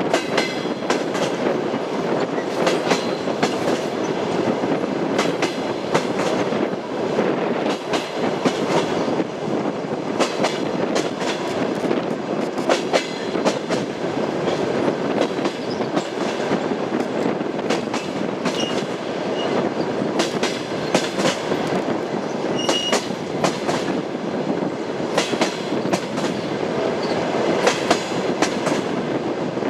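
Railway carriage wheels running over the rails: a steady rumble with a continual irregular clatter of clicks as the wheels cross the rail joints, and a few brief high squeaks in the second half.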